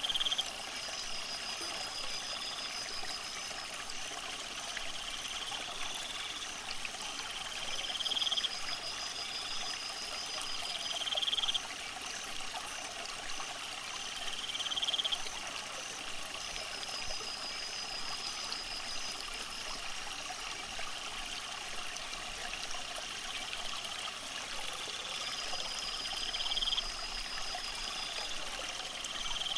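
Water trickling steadily under a chorus of calling animals: a buzzy call swells and cuts off abruptly every three to four seconds, over faster high-pitched pulsed chirping.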